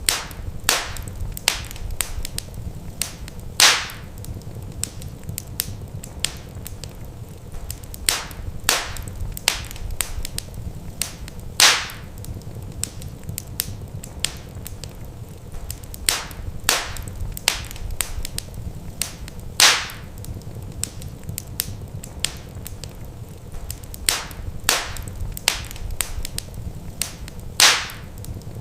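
Wood fire crackling in a fireplace: frequent sharp pops and snaps over a low steady rumble, with a louder pop about every eight seconds.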